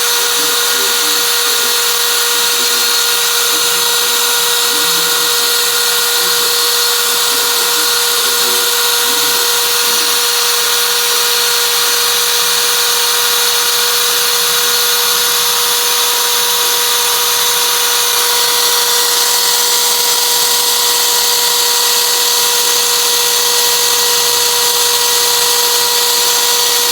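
CNC router spindle running at a steady high speed: a loud, constant high-pitched whine over a hiss that does not change pitch.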